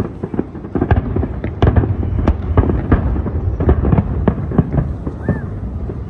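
Fireworks display: a rapid, overlapping series of aerial shell bangs and crackles over a continuous low rumble, growing denser and louder about a second and a half in.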